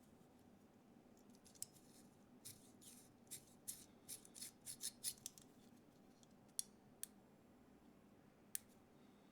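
A quick run of about a dozen short, crisp snips, then three separate sharp clicks, all fairly quiet.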